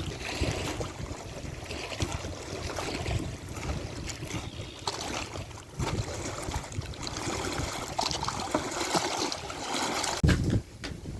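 Steady rushing water noise with many small splashes and ticks, and low rumbles of wind on the microphone, heaviest about ten seconds in.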